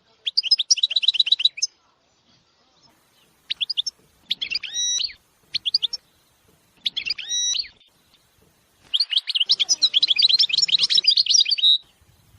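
European goldfinch singing in separate phrases: a fast, tinkling trill, then short phrases with drawn-out nasal notes, and a long rapid twittering run near the end.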